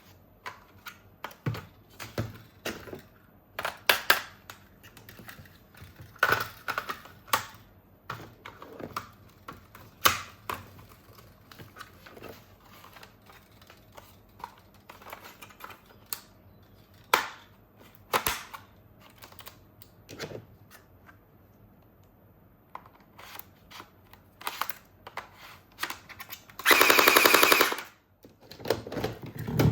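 Plastic toy guns and parts being handled, with scattered clicks and knocks throughout. Near the end comes about a second of a loud, buzzy, rapid rattle, the kind of electronic machine-gun sound effect a toy rifle plays when its trigger is pulled.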